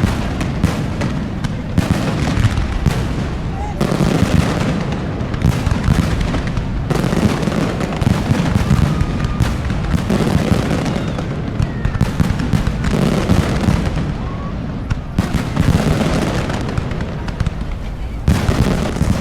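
Fireworks display: a dense, continuous barrage of shell bursts and crackling reports, coming in rapid salvos with no pause.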